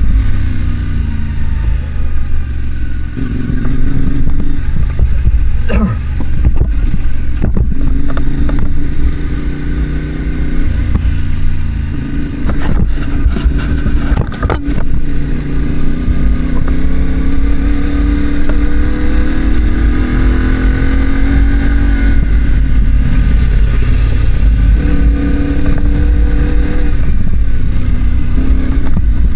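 Parallel-twin adventure motorcycle engine being ridden hard, its pitch climbing and dropping again and again as the throttle is opened and closed through the gears. A few sharp knocks come in the middle, with a heavy low rumble underneath.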